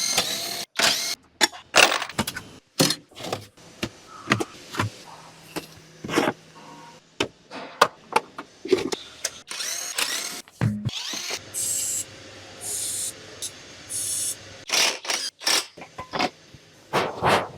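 Mechanic's hand and power tools at work on an engine: a string of metal clanks and clicks, with several short runs of a power tool about two thirds of the way through.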